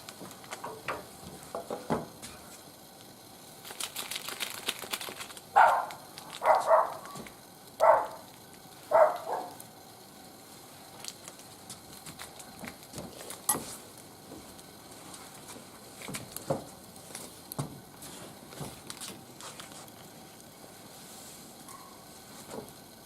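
Wood fire crackling in a barbecue grill, with scattered pops, and a brief hiss about four seconds in. Just after the hiss come four loud, short calls about a second apart.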